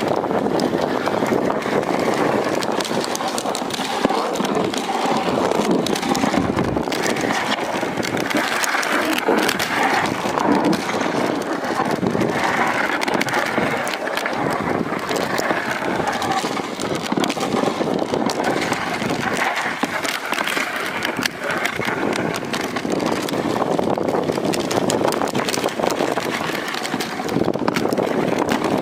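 Dog sled gliding over snow: a steady scraping hiss of the runners that goes on without a break.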